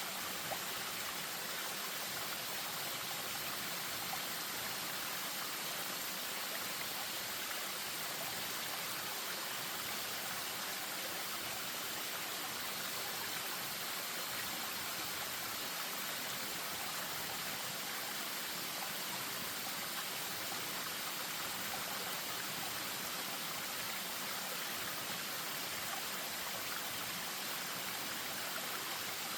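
Spring-fed stream running steadily over a small waterfall: a constant rush of water with a light trickle.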